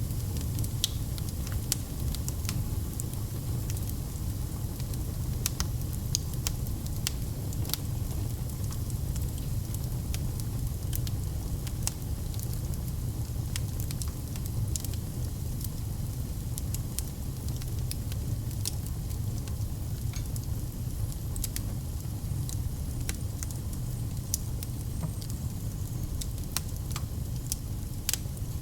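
Fire burning in a fireplace, crackling with scattered sharp pops over a steady low rumble.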